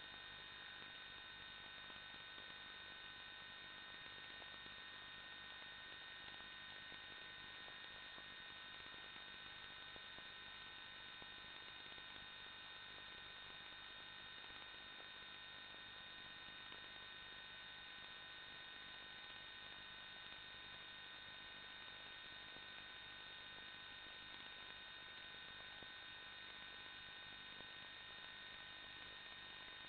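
Faint steady electronic whine: several fixed high tones over a light hiss, unchanging throughout.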